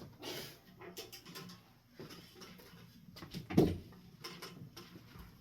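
Scattered light clicks and knocks from hands handling hardware, with one louder thump about three and a half seconds in.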